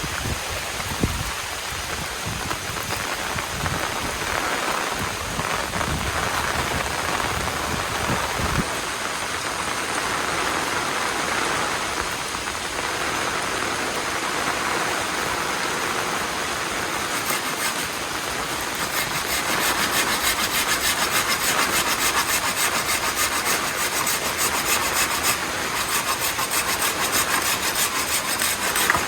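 Heavy rain falling steadily. From about two-thirds in, a fast, even rasping rhythm is heard over it.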